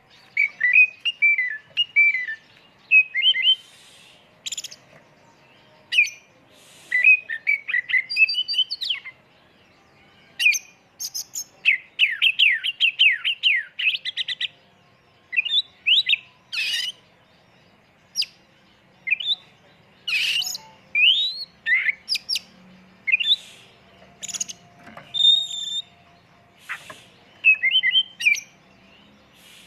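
Oriental magpie-robin (kacer) singing a varied song of sharp whistles, upward-sweeping notes and chattering phrases, broken by short pauses. About twelve seconds in comes a fast run of repeated falling notes.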